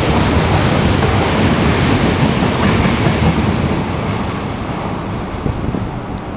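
A passing intercity through train's wagons rumbling by close on the platform track, with wheels clattering over the rails. The sound fades after about four seconds, as the last vehicle clears the platform.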